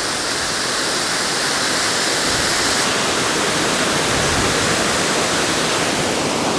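Waterfall: a steady rush of falling water, growing a little louder over the first couple of seconds.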